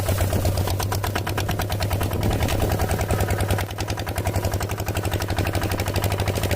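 Small mini-tractor engine running steadily with a rapid, even chugging beat.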